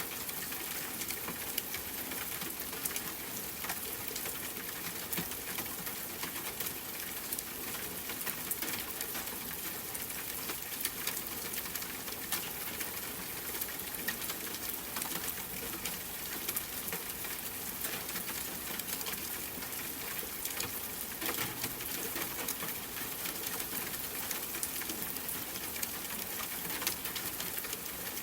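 Steady rain pattering, a constant hiss full of small drop ticks.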